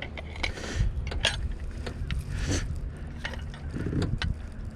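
Scattered small clicks and clinks of fishing gear being handled, over a steady low rumble.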